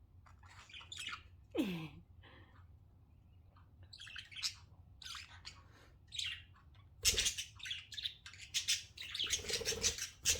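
Several pet budgerigars chirping and chattering, with scattered short calls at first and a busier, denser run of chatter from about seven seconds in.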